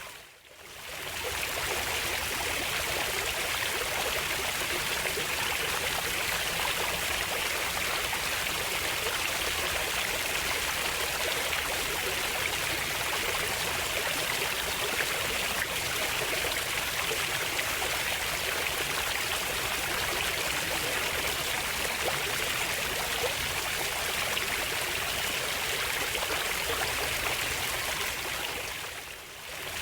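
Steady rushing of a flowing stream, with a brief fade down and back up near the start and again near the end.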